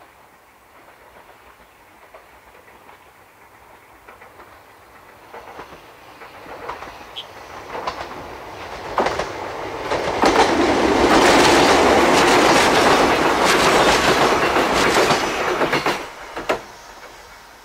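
Yoro Railway electric train passing, its wheels clicking over the rail joints. It grows louder over several seconds, is loudest for about five seconds as the cars go by, then falls away suddenly, leaving a few last clicks.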